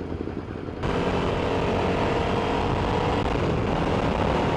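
2006 Suzuki SV650S's 645 cc 90-degree V-twin engine running steadily under way, over a hiss of wind and road noise. The sound steps up sharply in level about a second in and holds steady after that.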